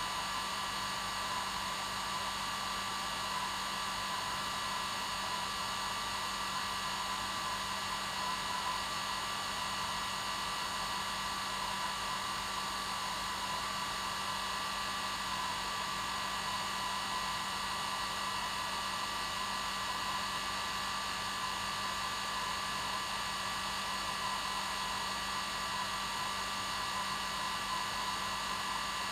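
Hair dryer running steadily: an even rushing blow with a constant whine from its motor and fan, unchanging throughout.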